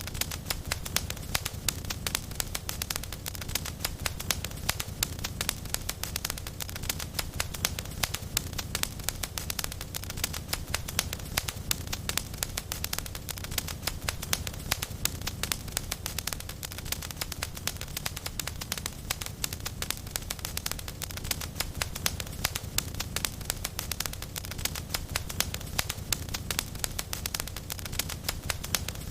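Wood fire in a fireplace crackling steadily: a dense, continuous run of small pops and snaps over a low rumble of the burning.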